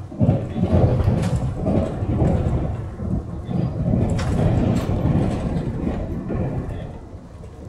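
Onboard running noise of a Puyuma Express TEMU2000 tilting electric train: a low rumble that swells suddenly about a quarter second in and fades away near the end.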